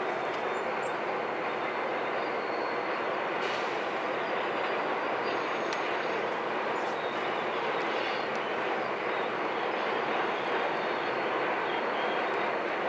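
Loaded welded-rail train rolling slowly past: a steady, even rumble of rail cars on the track.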